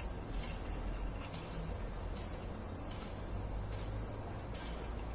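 Small birds calling: high thin chirps, with two short arched whistles a little past halfway. There are a couple of sharp clicks near the start, over a low steady rumble.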